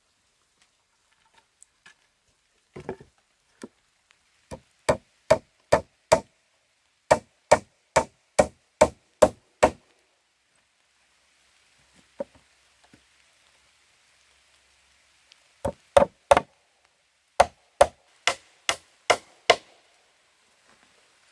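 A tool striking wood, chopping in an even rhythm of about two and a half blows a second, in two runs: about a dozen blows in the first half and nine near the end, each with a short ring.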